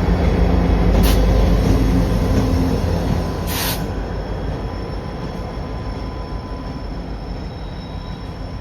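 EMD GP-series diesel locomotives (a GP38-2 among them) passing with a heavy low rumble and a steady engine drone, fading as the train moves away. Two short high-pitched bursts cut through, about one second and three and a half seconds in.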